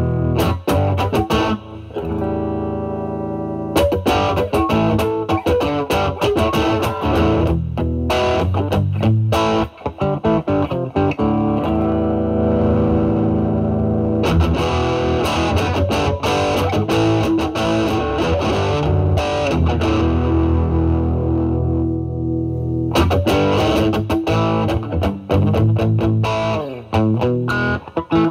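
Overdriven electric guitar: a Fender Stratocaster played through a Vertex Steel String Clean Drive MK1 (J201 FET overdrive) at maximum gain, into a Marshall Valvestate amp's drive channel. Picked single notes and chords with sustained notes, pausing briefly about two seconds in and again near the end.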